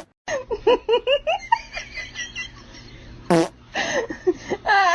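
A person laughing and giggling in quick short bursts, with one short loud sound about three seconds in.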